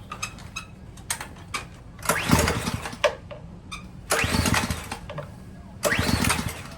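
Ryobi pressure washer's small gas engine being pull-started on choke: three pulls of the recoil starter cord about two seconds apart, each a brief whirring crank that rises and falls. The engine does not catch, a failure to start that the owner puts down to a worn-out carburetor.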